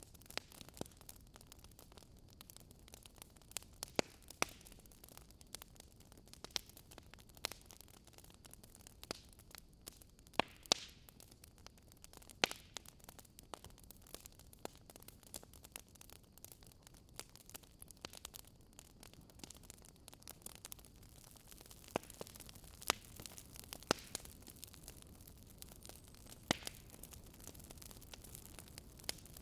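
Wood campfire crackling, with irregular sharp pops and snaps over a faint steady hiss.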